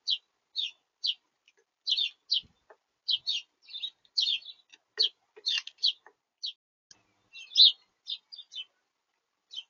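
Small birds at a feeder chirping: a quick, irregular run of short, high chirps, two or three a second.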